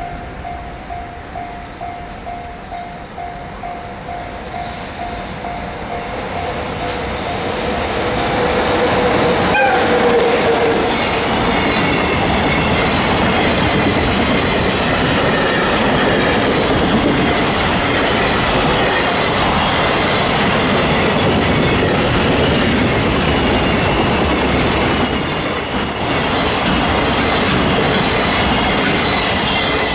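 JR EF66 electric locomotive approaching and passing at the head of a long container freight train, then the container wagons rolling by, rumbling and clattering over the rail joints. For the first several seconds a level-crossing bell rings with a steady pulsing tone as the train draws near. There is a brief high wheel squeal near the end.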